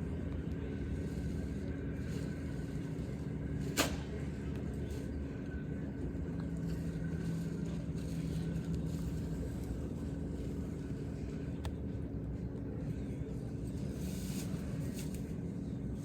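Steady airport terminal background: a low rumble with a constant hum, and a single sharp click about four seconds in.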